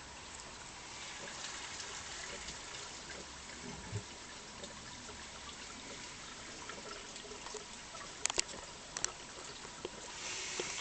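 Cockatiel preening close to the microphone: soft, steady rustling and hiss of feathers being worked through, with a few sharp clicks near the end.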